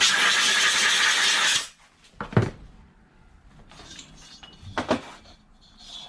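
A loud, steady hiss lasting about a second and a half that starts and stops abruptly, then two separate short metallic clinks from tooling on a cylinder head during valve-seat work.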